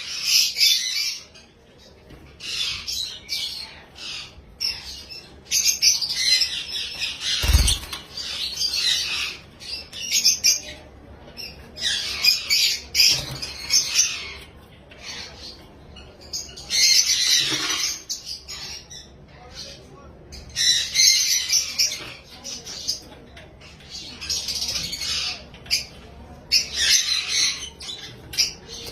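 Lovebird calling in bursts of rapid, high chirps, each burst lasting a second or two and coming every few seconds. A single low thump about seven and a half seconds in.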